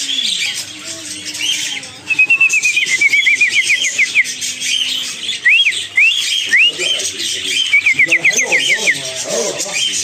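Cage birds chirping: a quick run of short, high chirps about two seconds in and another near the end, with a few rising whistled notes between them.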